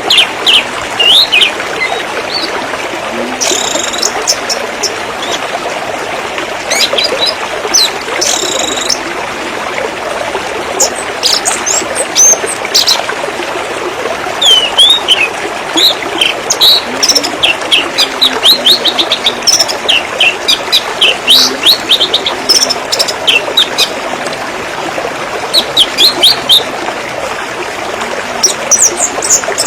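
Steady trickle of running water with many birds chirping over it: quick, sharp short notes coming in clusters.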